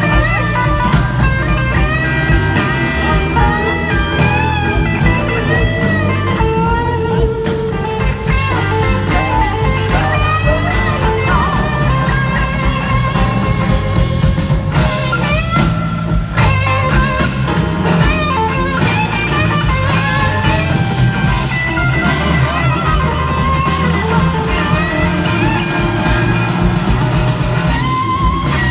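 Live blues-rock band playing an instrumental passage: a lead electric guitar solos with bending, gliding notes over bass and drums.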